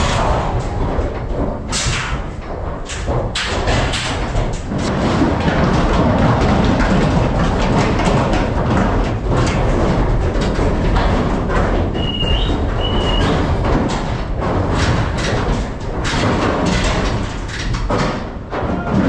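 Vehicle cab interior while driving: a steady low engine and road rumble with frequent knocks and thuds as the cab jolts.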